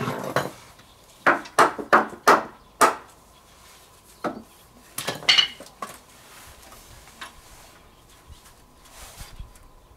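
Sharp knocks and clatter of hard objects being handled: about five in quick succession near the start, then a few sparser ones, fading to faint taps.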